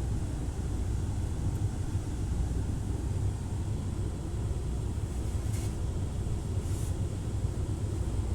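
Steady low rumble heard from inside a car going through an automatic tunnel car wash, with two short hisses of spray about two-thirds of the way through.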